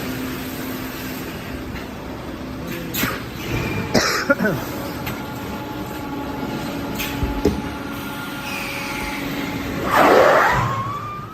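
Mattress-making machinery running with a steady mechanical hum and several sharp knocks and clanks. About ten seconds in comes a loud burst with a whine rising in pitch.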